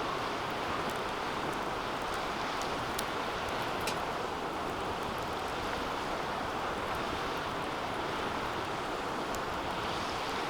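Wood fire burning in a DOD Mecha-moe Fire 2 fire pit: a steady rushing noise with a few faint sharp pops scattered through it.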